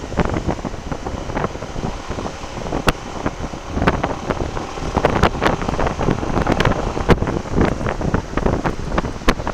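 Wind buffeting the microphone of a motorcycle-mounted camera while riding, a steady rush broken by irregular sharp gusts and thumps.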